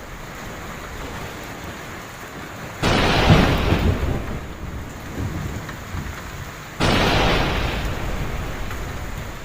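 Steady heavy rain with two claps of thunder, about three seconds in and again near seven seconds. Each clap starts suddenly and rumbles away over a couple of seconds.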